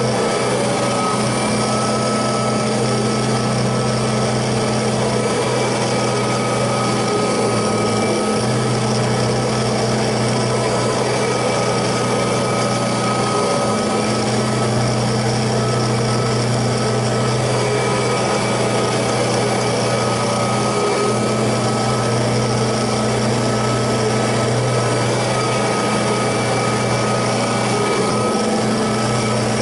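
Kirby Heritage II upright vacuum cleaner's motor running steadily with a low hum and a higher whine.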